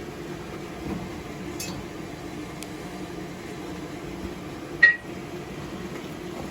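Steady mechanical hum of the forge running, with a single sharp metallic clink about five seconds in that rings briefly, as the hardened steel blade knocks against metal.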